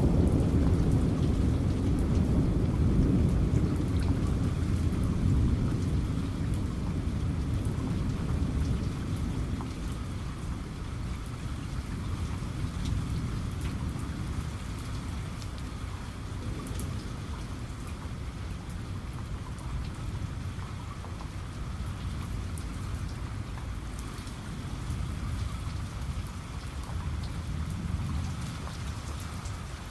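Steady rain falling, with a low roll of thunder that fades away over the first several seconds. A softer rumble swells again near the end.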